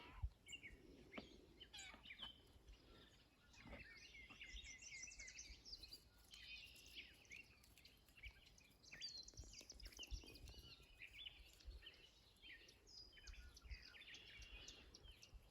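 Faint birdsong: many short chirps and trills from several birds, over a faint low rumble.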